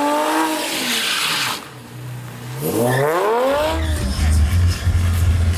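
A car revving with wavering tyre squeal and a hiss of skidding, then a rising rev about three seconds in. Heavy pulsing bass music comes in near the end.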